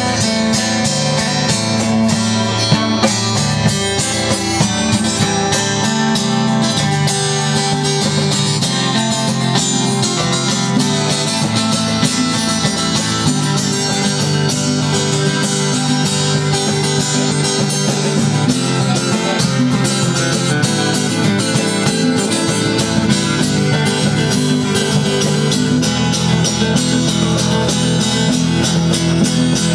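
Live band playing an instrumental, guitar-led jam, with strummed and plucked guitars over a steady beat.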